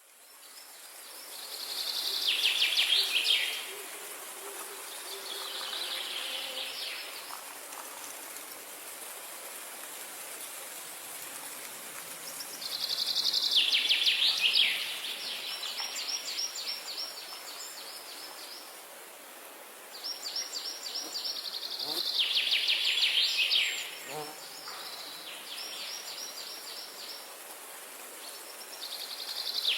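A songbird singing a high, repeated song phrase every several seconds: a quick falling run of notes leading into a fast trill, over a steady background hiss.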